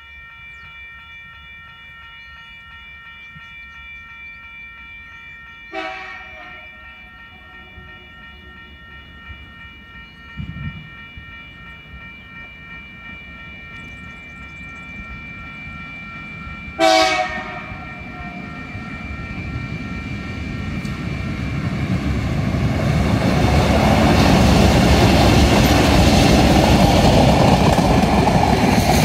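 TasRail TR-class diesel locomotives sounding two short horn blasts, the second louder, over the steady ringing of the level crossing's warning bell. The container train's engines and rolling wheels then grow steadily louder as it draws up to and passes the crossing, loudest near the end.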